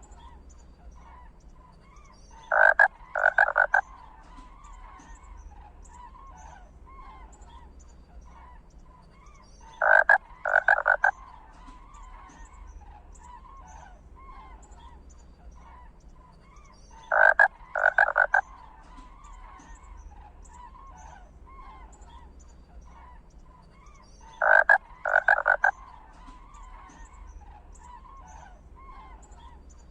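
Frogs croaking: a steady chorus of small calls, with a loud group of two or three croaks repeating about every seven seconds, four times.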